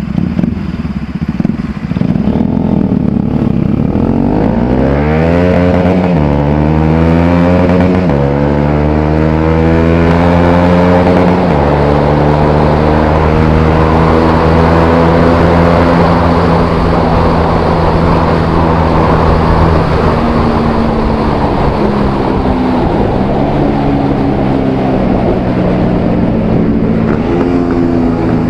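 Single-cylinder Bajaj Pulsar 200 motorcycle engine pulling away and accelerating through the gears: the engine note climbs, then drops with each upshift about 6, 8 and 11 seconds in, before settling into a steady cruise.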